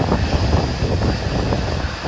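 Wind buffeting the microphone in uneven low gusts, over the steady rush of jet engines.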